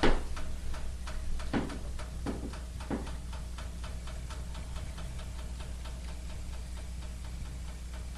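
Wood fire burning in a fireplace, crackling with irregular small ticks. A loud pop comes at the start and a few more sharp pops follow within the first three seconds, over a steady low hum.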